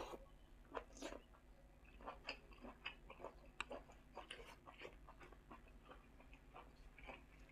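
Faint close-up chewing of a mouthful of spicy pork sausage salad: soft, irregular wet mouth clicks and smacks.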